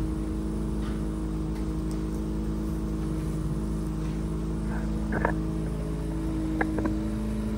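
Mazda RX-7 FC's 13B two-rotor engine idling steadily, with a few light clicks and knocks around the middle.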